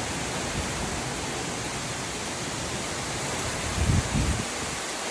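Heavy rain pouring down in a steady hiss, with a brief low rumble about four seconds in.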